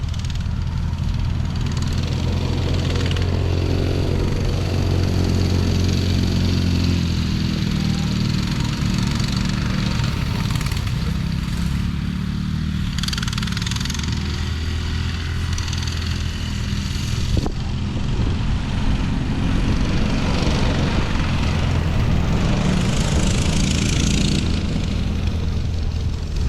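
Small off-road vehicle engine running under way, its pitch rising and falling with the throttle, with one sharp click about two-thirds of the way through.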